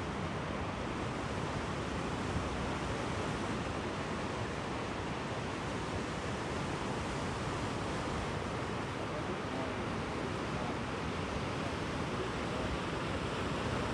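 Sea waves washing in, a steady, even rush with no breaks.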